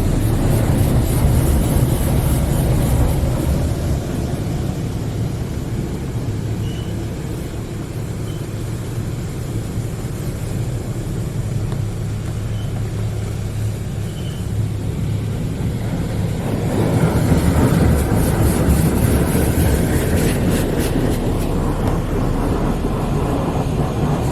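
Hydro Spray Classic in-bay automatic car wash running its wash cycle: water spraying onto the car over the steady hum of the machine. The spray gets louder about two-thirds of the way through.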